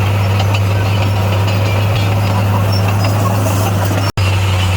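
Bulldozer diesel engine running at a steady speed: a deep, even hum that does not rise or fall. The sound cuts out for a split second near the end, then resumes unchanged.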